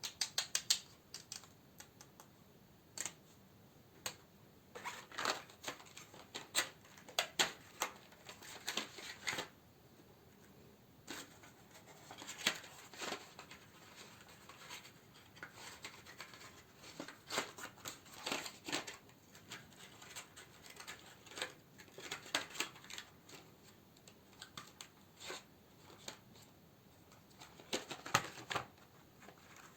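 Close-miked handling of candles in plastic and paper packaging: irregular crisp crinkles, rustles and small taps, in clusters with short pauses between.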